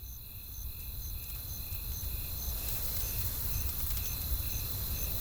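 Crickets chirping about twice a second over a steady high insect trill, with a low rumble and faint crackles of a campfire underneath; the whole ambience swells gradually.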